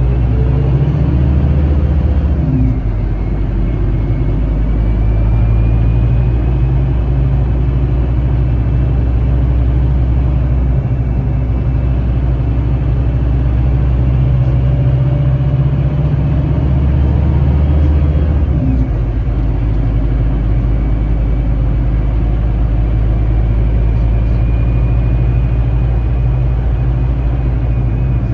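Scania K310IB bus's diesel engine running under way, with a faint high whine above it. The engine note drops sharply twice, about two and a half seconds in and again about two-thirds of the way through.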